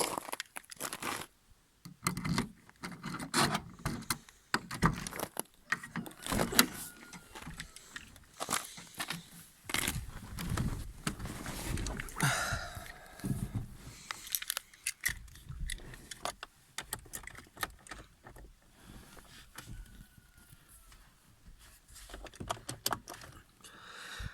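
Keys jangling and clattering among irregular scraping and handling noises.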